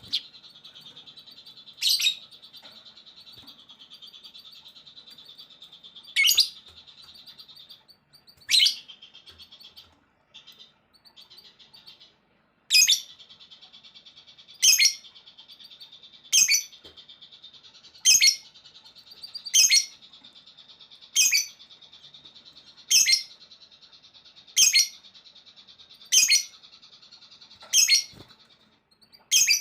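Songbird singing: a steady high buzzing trill, broken briefly around the middle, with a loud, sharp call note repeated over it, regularly about every second and a half in the second half.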